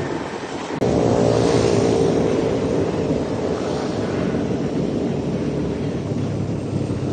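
Motorbike engine running while riding, with wind buffeting the microphone. The sound changes abruptly a little under a second in, then holds a steady engine drone.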